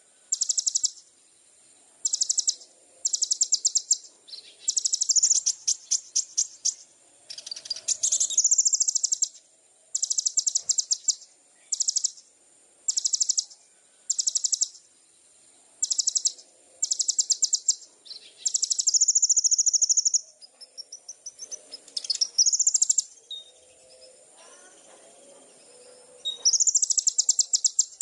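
A small songbird repeating short, very high trills of rapid ticking notes, about one trill a second, with a few longer trills and rising slurs a little past the middle. A steady faint high insect drone runs behind.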